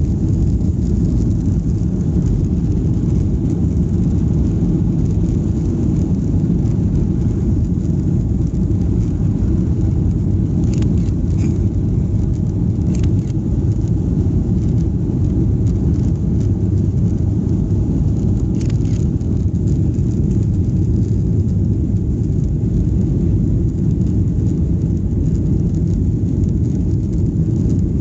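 Steady low rumble heard inside the passenger cabin of a Boeing 737-800 airliner, holding level throughout, with a few faint clicks.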